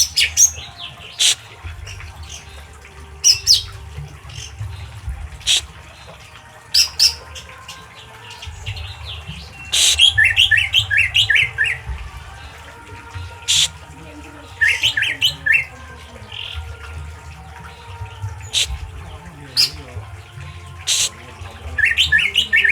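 A songbird giving sharp, rapid 'tembakan' call phrases: single piercing notes and quick runs of short descending chirps, coming in bursts every second or two over a low background rumble.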